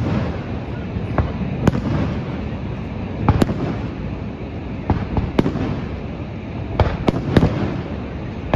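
Aerial fireworks exploding in the sky: about eight sharp bangs at irregular intervals, three of them in quick succession near the end, over a steady low rumble.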